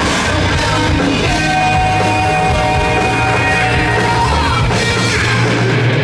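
A rock band playing live, loud and full, with long held notes over a steady bass line.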